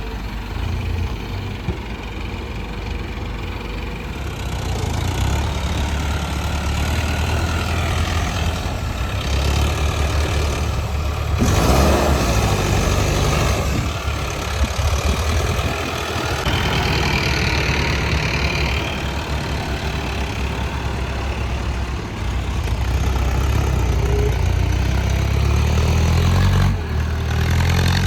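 Diesel engines of a Hyundai 150L excavator and farm tractors running steadily. A louder rushing noise lasts about two seconds near the middle.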